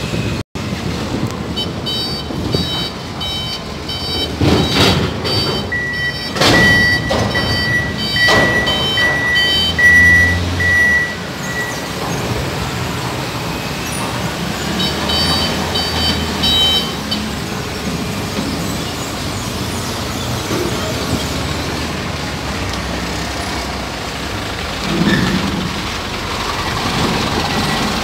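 Heavy vehicle's reversing alarm beeping in rapid repeated runs over a low diesel engine rumble, with a few loud clanks in the first ten seconds.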